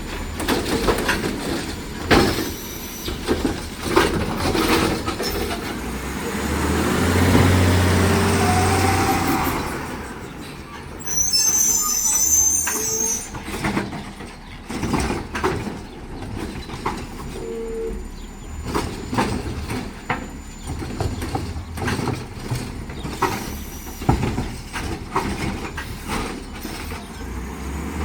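Heil Rapid Rail automated side-loader garbage truck at work: the diesel engine revs up for several seconds to power the arm, over repeated knocks and bangs from the cart and arm. A short air-brake hiss comes about eleven seconds in.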